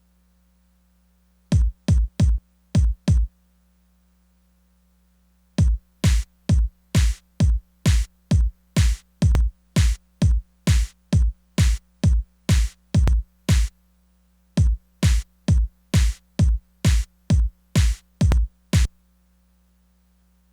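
Korg Electribe Sampler ES2 playing one drum sound in a steady four-on-the-floor pulse, about two hits a second. It stops and starts three times, with silent gaps between the runs.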